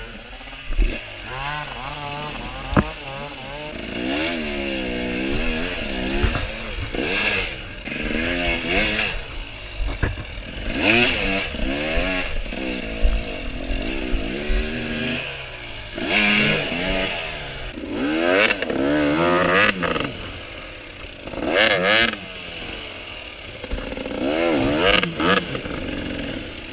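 Dirt bike engine revved in repeated bursts, the pitch climbing and dropping again and again as the bike is worked up a slippery rock climb. Now and then a sharp knock sounds as the bike strikes rock.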